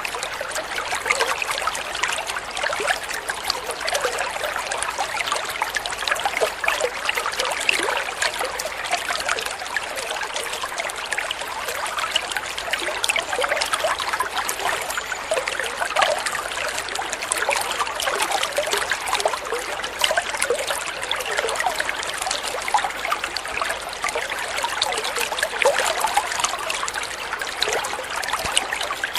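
Water trickling and splashing steadily, like a small stream or running water flowing over stones, with a constant busy patter of small splashes.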